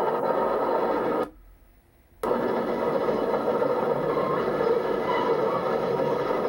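CSX freight train passing with a steady, even noise of the train rolling by. About a second in, the sound drops out abruptly to near silence for about a second, then comes back just as suddenly.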